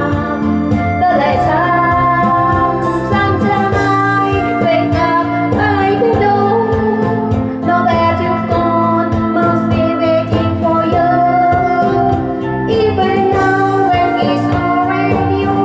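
Woman singing a pop song over a backing track with a steady beat.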